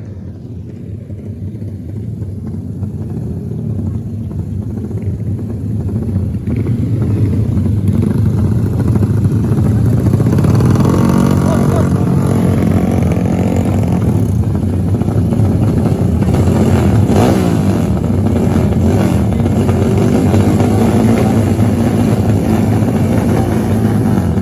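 Dirt-bike motorcycle engines running and revving, growing louder over the first several seconds, then staying loud and steady.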